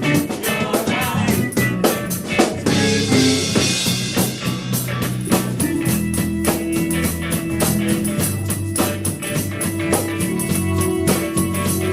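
A live rock band playing: drum kit, electric guitar and bass, with a held bass note from about six seconds in.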